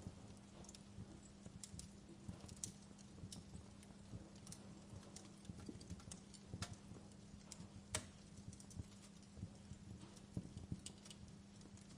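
Wood fire crackling: irregular small pops and snaps at uneven intervals, a few sharper cracks among them, over a faint steady low hum.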